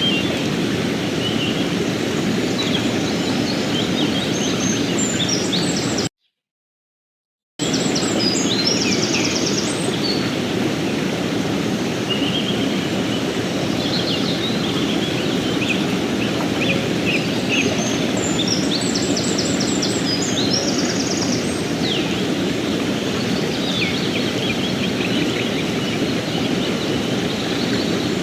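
River water rushing steadily, with songbirds chirping and giving short rapid trills over it. About six seconds in the sound cuts out completely for about a second and a half, then resumes.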